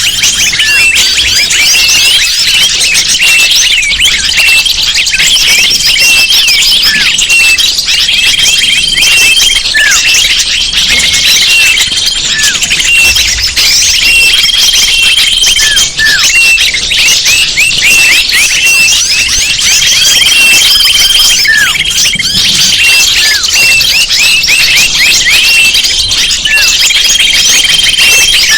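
Bird-lure recording: a dense, loud chorus of many small birds' overlapping high chirps and twitters. Held flat whistles recur every few seconds, and short notes slide downward.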